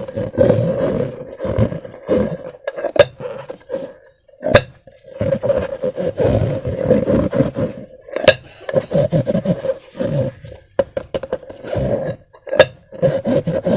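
Slime being squished and worked in a rubber balloon: continuous rubbery squeaking and squelching, with sharp snapping clicks about four times.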